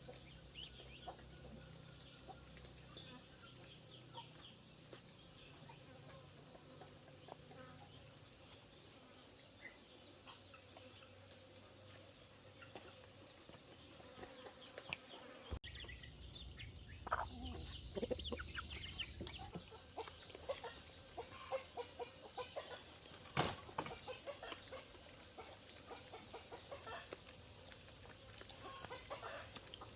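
Chickens clucking, with many short scattered ticks and scratches, fairly faint. About two-thirds of the way in, a steady high-pitched tone comes in and holds.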